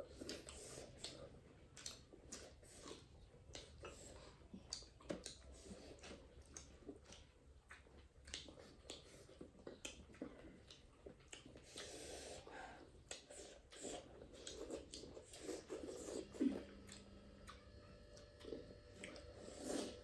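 Eating sounds: chewing and mouth noises on duck curry, with many short, irregular clicks and smacks.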